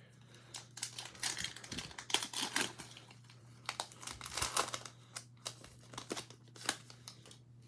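Foil wrapper of a trading-card pack crinkling and tearing as the pack is ripped open, with the cards rustling and clicking as they are handled in irregular bursts.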